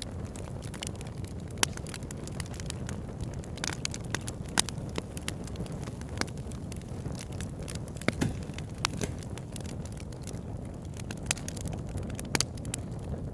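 Wood fire burning: a steady low rumble of flames with frequent sharp crackles and pops, a few of them standing out louder.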